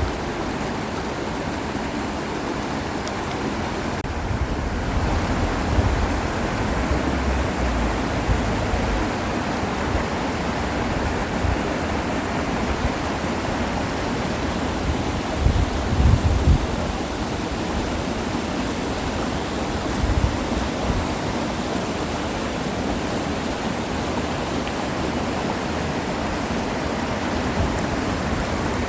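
Mountain stream water rushing steadily over rocks, with a few brief low rumbles, the strongest about sixteen seconds in.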